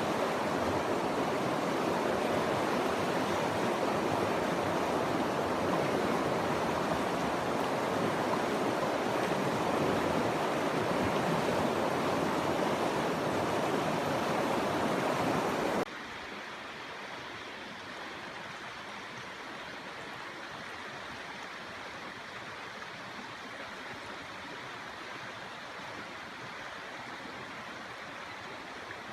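Steady rush of moving water, such as a stream or surf. It is louder for the first half, then cuts suddenly to a quieter, similar rush.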